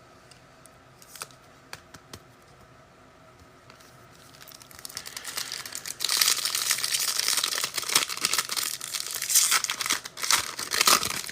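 Trading-card pack wrapper being torn open and crinkled: a few faint clicks, then crackling that builds about four seconds in and turns loud and busy for the rest.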